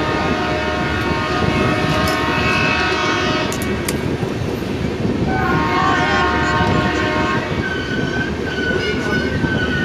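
Diesel-hauled passenger train running, with a continuous heavy rumble. A horn sounds in two long blasts: one lasting about the first three and a half seconds, and another starting about five seconds in and held to the end.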